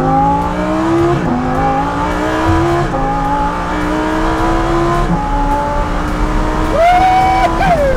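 Lamborghini engine accelerating hard through the gears: its pitch climbs and drops back at three upshifts. Near the end comes a brief higher, sharper note that falls away.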